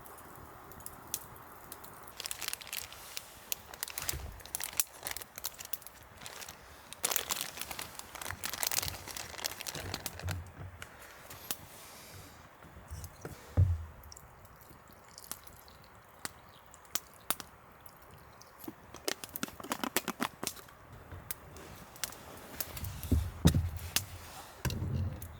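Irregular crinkling and crackling handling noises with scattered sharp clicks, and a few soft low thumps.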